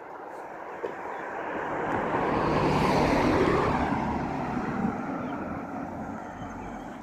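A motor vehicle passing by: its engine and road noise swell to a peak about three seconds in, then fade away.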